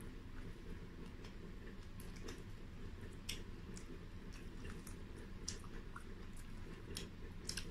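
Close-up mouth sounds of people eating by hand: chewing with irregular, scattered wet smacks and lip clicks over a faint low hum.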